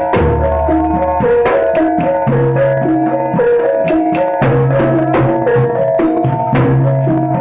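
Jaranan dance music: steady drum strokes under a repeating melody of held notes, with low bass notes changing every second or so.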